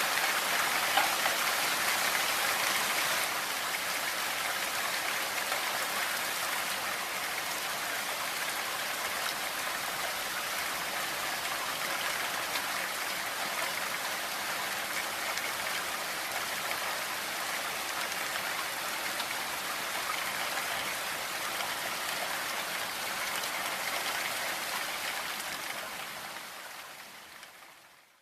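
Steady rain falling, an even hiss of many drops, fading out over the last few seconds.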